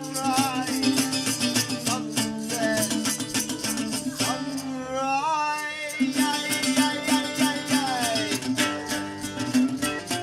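Live acoustic music: a strummed guitar with a shaker-like rattle keeping time, and a melodic line that bends and glides upward about halfway through.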